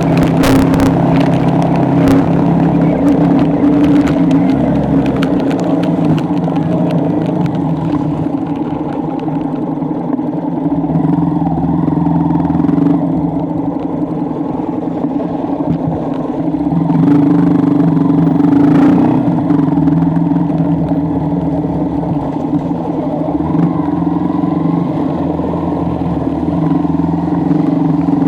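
Motorcycle engine running steadily while riding, its pitch holding with small rises and falls and some road and wind noise.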